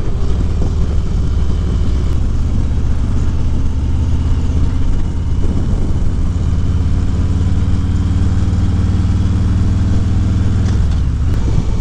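Harley-Davidson Road Glide Special's V-twin engine running under way. It eases off about five seconds in, then its pitch climbs steadily as the bike accelerates, dropping back near the end.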